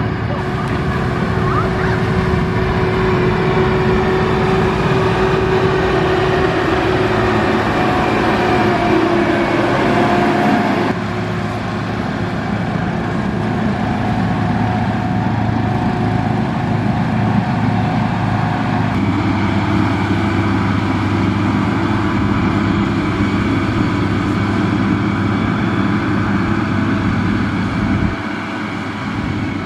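Diesel engine of heavy road-construction machinery running steadily under work, with abrupt changes in pitch and loudness about eleven, nineteen and twenty-eight seconds in.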